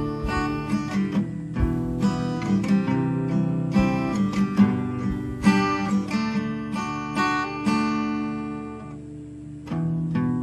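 Acoustic guitar playing a song's instrumental intro in picked notes and strummed chords. It dies down about eight seconds in and picks up again near the end.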